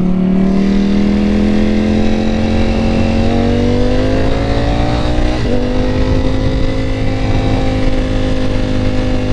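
Motorcycle engine pulling through a gear, its pitch climbing steadily for about five seconds, then a brief break and slight drop at an upshift, after which it runs steady, with a low rush of wind and road noise underneath.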